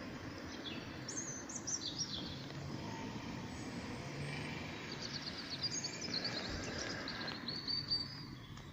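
Small birds chirping and trilling in short, high phrases, heard in bursts about a second in and again through the second half, over a steady background hiss.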